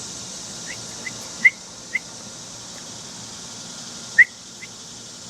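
Short whistled chirps, about six brief notes in two groups, the loudest about a second and a half and about four seconds in. A person is whistling to coax a baby bird into opening its mouth for food.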